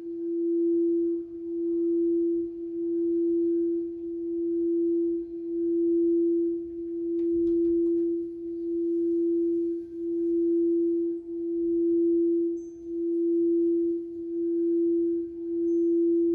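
Crystal singing bowl sounding one sustained, pure tone that swells and dips in loudness about every second and a half. There is a faint click about halfway through.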